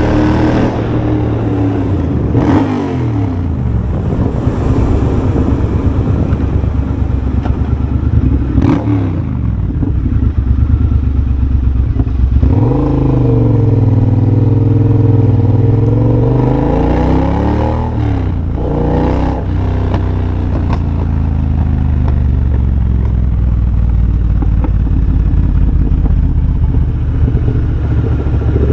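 Triumph Bobber's 1200 cc parallel-twin engine on the move, de-catted with an X-pipe and a Motone Shorty exhaust. The revs drop twice early on with a few brief sharp clatters, rise sharply about twelve seconds in under hard acceleration, hold there for about five seconds, then fall away and settle to a steady lower pull.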